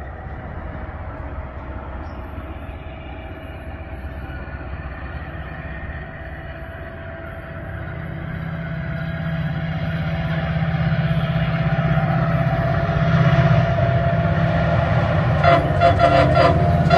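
MARC commuter train approaching along the line, its low rumble growing steadily louder. A horn sounds about a second and a half before the end.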